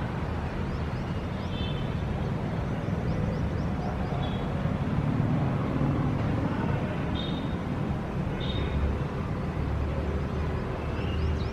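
City street ambience: a steady rumble of traffic, with small birds chirping over it in short, quick runs of high notes every few seconds.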